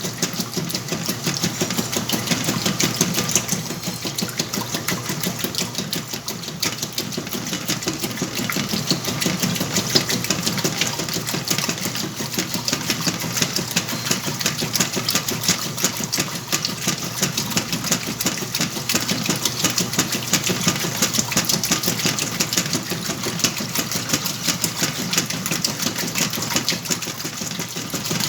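Whirlpool washing machine running a load of blankets, with a steady, dense, rapid clatter that does not let up.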